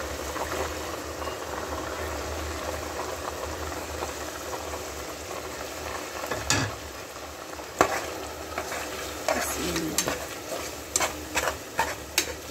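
Green mung beans and potato pieces sizzling steadily in hot oil in a pressure cooker. From about halfway through, a spatula stirs the pot, knocking and scraping against the metal in a series of sharp clicks, one louder knock a little past the middle.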